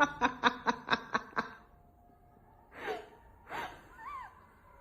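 A person laughing in a quick run of about eight short bursts, then two short breathy gasps.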